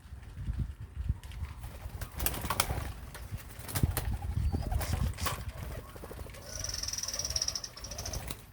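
Birds calling: low, dove-like cooing with several sharp clicks in the middle, and a high trilling call held for nearly two seconds near the end.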